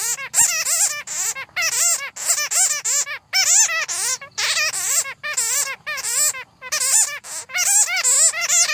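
Bats squeaking and chattering: rapid overlapping high chirps that rise and fall in pitch, in bouts of under a second broken by brief pauses.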